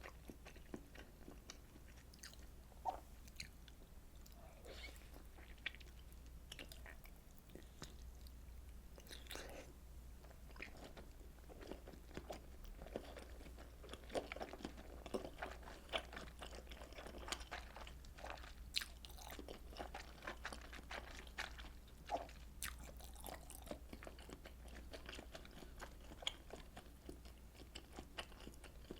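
Close-miked mouth sounds of eating fish cake soup: chewing soft fish cakes and rice cake, with irregular wet clicks and smacks, over a steady low hum.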